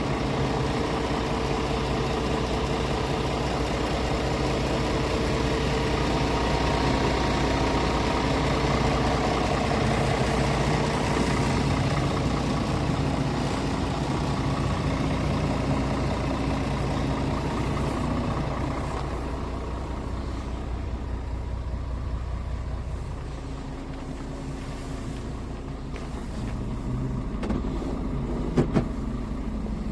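Scania R450's 13-litre inline-six diesel running steadily, turning quieter for several seconds past the middle, with two sharp clicks near the end.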